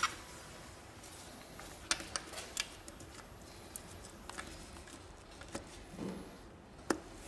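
Scattered light clicks and taps, about eight over several seconds, over low background noise.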